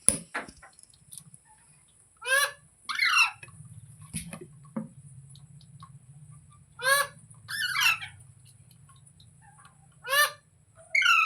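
Green parrot giving loud, harsh calls in three pairs about four seconds apart, each pair a short call followed by a longer, sweeping one. A click at the start and a couple of soft knocks midway.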